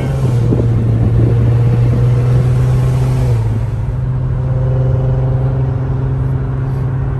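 A 2008 Volkswagen Golf R32's 3.2-litre VR6 engine running under way, heard from inside the cabin as a steady drone with road noise. Its note eases a little about three seconds in.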